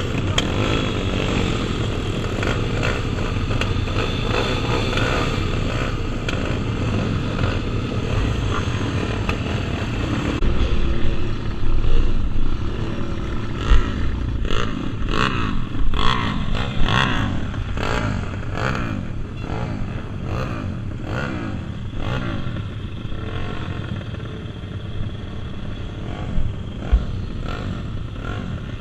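Several pit bike engines revving during a mini-motocross race, their pitches rising and falling over each other as the bikes accelerate and back off. About halfway through it gets louder for several seconds, with clattering knocks.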